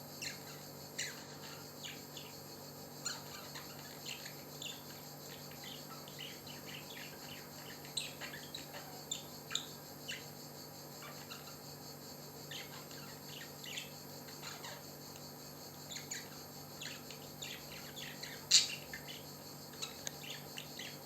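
Pet parrot giving scattered short chirps and clicks, one much sharper and louder near the end, over a steady drone of crickets.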